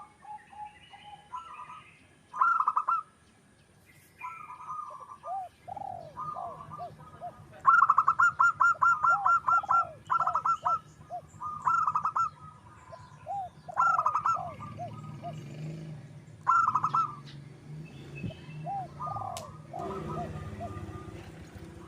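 Zebra doves (perkutut) singing: short bursts of rapid, stuttering notes repeat every second or two, and lower rounded coos run in between and overlap them from about five seconds in. Under the calls is a faint low hum.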